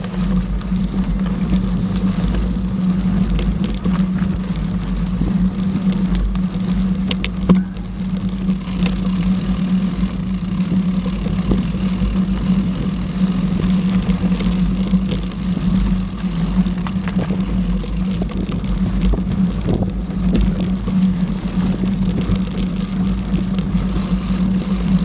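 Mountain bike riding noise: a steady droning rumble with wind buffeting the microphone, and scattered clicks and rattles, the loudest about seven seconds in.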